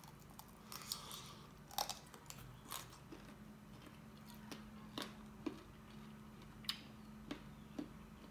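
A man biting and chewing a chicken foot: about a dozen sharp crunches and clicks scattered through, over a faint steady hum.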